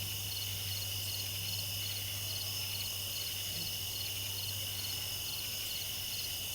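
Crickets chirping in an even rhythm, about two chirps a second, over a steady high insect trill and a constant low hum.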